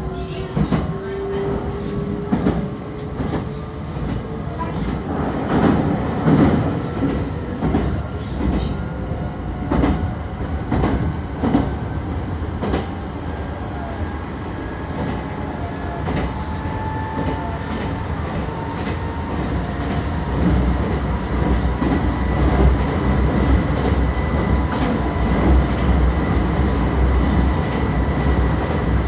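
Meitetsu 3150 series electric train running, heard from inside the car: the motor whine climbs slowly in pitch as the train gathers speed, over a steady rumble. The wheels clack over rail joints again and again, and the low rumble grows heavier in the second half.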